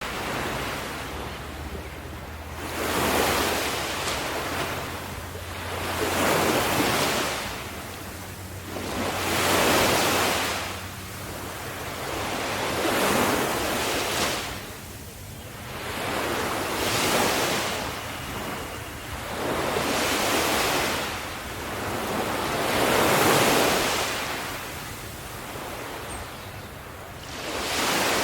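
Sea waves breaking on a shore, each wave swelling into a broad wash and fading, about one every three to four seconds.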